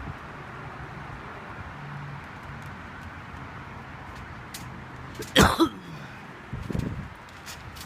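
Steady outdoor hiss of wind and distant background noise. About five seconds in there is a sudden loud sound with a falling tone, and a second, shorter and lower one follows about a second later.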